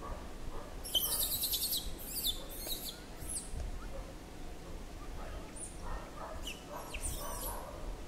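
Small birds chirping and twittering in quick high-pitched runs, a dense burst about a second in and scattered chirps again near the end.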